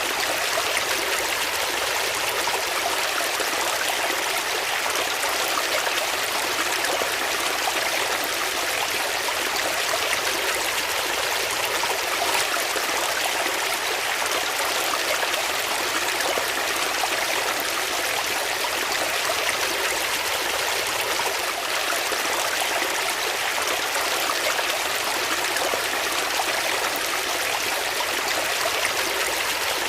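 Flowing water: a stream running steadily, an even rushing and trickling with no pauses or distinct splashes.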